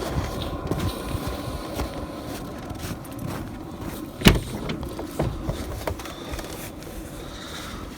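Steady machine hum, most likely the diesel heater running, under irregular small clicks and rustles of things being handled, with one sharp knock about four seconds in.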